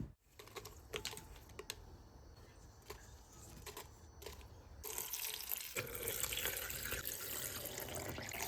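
A few light clicks and taps, then about five seconds in a tap is turned on and water runs steadily.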